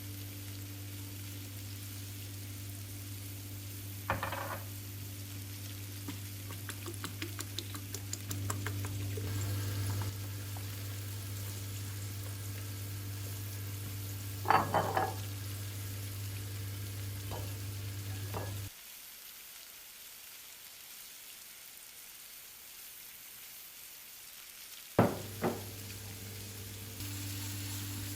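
Food sizzling and crackling as it fries in a pan, with a few clinks of a utensil against it. A steady low hum runs underneath, stops about two-thirds of the way through and comes back near the end.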